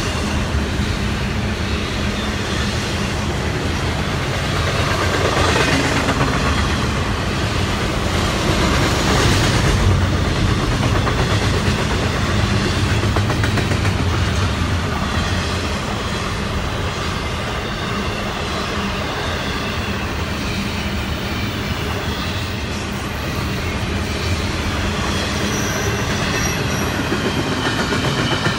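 Double-stack intermodal freight cars of a Florida East Coast Railway train rolling past close by: a steady loud rumble of steel wheels running on the rails. A faint high whine comes in briefly near the end.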